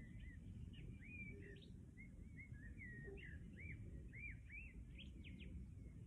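A songbird singing faintly: a quick run of short whistled notes that rise and fall, over a steady low rumble.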